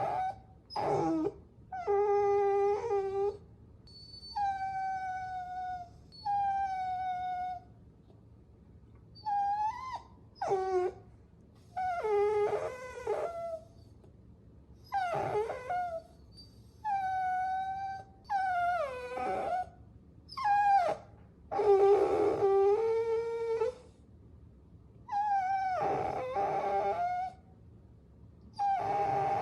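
Puppies whining: a string of high-pitched whines and whimpers, each up to about two seconds long with short pauses between, several sliding down in pitch at the end.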